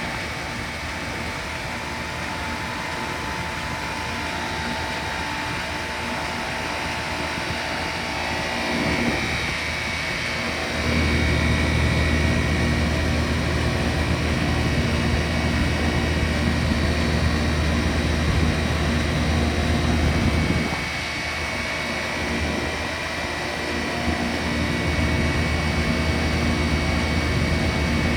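Heat pump units running in heat mode: a steady fan and compressor hum with a thin steady whine over it. A deeper, louder hum swells in about eleven seconds in, drops away near twenty seconds, and comes back for the last few seconds. The uneven running sounds a little sick to the owner.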